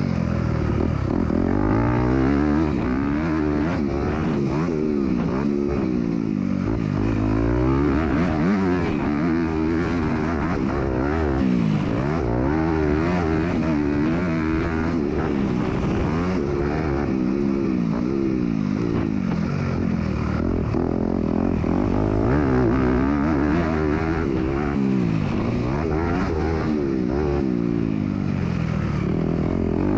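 MX2 motocross bike's engine racing around the track, its pitch rising and falling over and over as it revs up and drops back, heard close up from the onboard camera.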